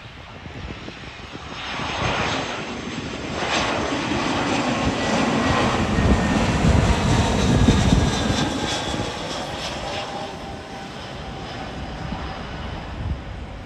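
Jet airliner passing by. Its noise swells over a few seconds, is loudest near the middle, then fades, with a whine that falls in pitch as it goes past.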